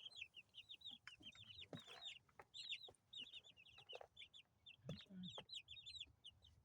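Two-week-old chicks peeping, a quiet, steady stream of many short high chirps overlapping one another, with a few soft knocks in between.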